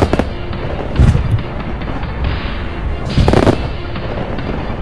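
Aerial fireworks barrage: sharp booms right at the start, about a second in and in a cluster around three seconds in, with crackling shell bursts in between, heard together with added background music.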